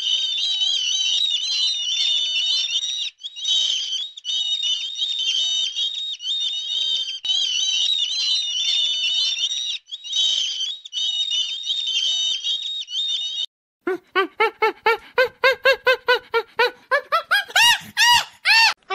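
A dense chorus of high-pitched bird chirping and twittering, broken by short cuts. About fourteen seconds in it gives way to a fast run of repeated animal calls, several a second, that climb in pitch near the end.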